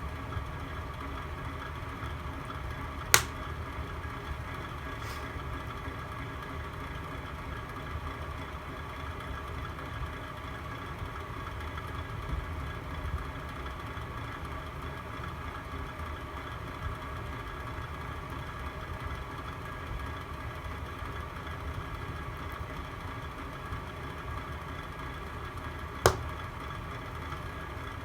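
Fire burning in a fireplace: a steady low rumble, with two sharp pops, one about three seconds in and one near the end.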